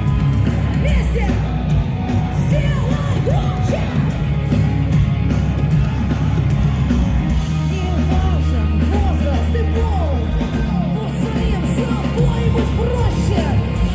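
Rock band playing live at high volume, with sustained heavy low notes, and voices singing and yelling over the music.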